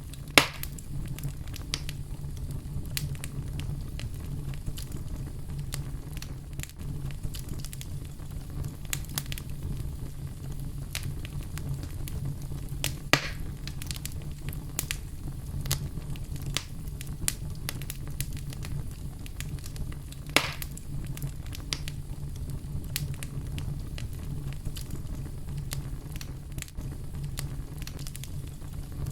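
Fireplace fire crackling steadily over a low rumble of flame, with scattered small snaps and three louder pops: one right at the start, one about halfway through and one about two-thirds through.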